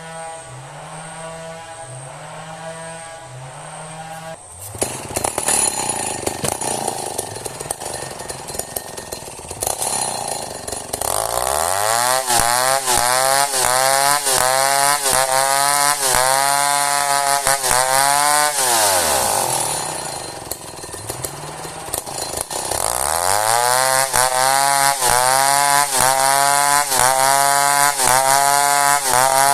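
Two-stroke chainsaw idling unevenly, then revving up to full throttle and running hard, as when cutting through a merbau hardwood log. The revs drop back to idle for a few seconds about two-thirds of the way through, then climb again to full throttle.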